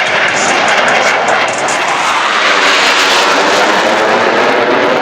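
Loud, continuous jet noise from a Blue Angels F/A-18E/F Super Hornet flying past, its twin F414 turbofans running at high power.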